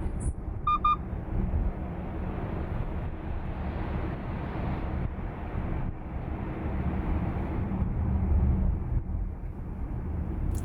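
Volkswagen ID.4 electric car on the move: a steady low road and tyre rumble, with a short double electronic beep about a second in.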